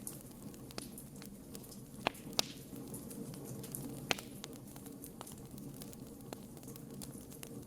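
Wood fire burning steadily with a low rumble, with scattered sharp crackles and pops, the loudest three between about two and four seconds in.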